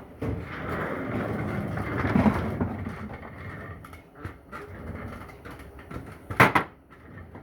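Handling noise from Powerglide transmission parts being worked by hand: rough scraping and rustling for the first few seconds, then quieter fiddling, with one sharp knock about six seconds in.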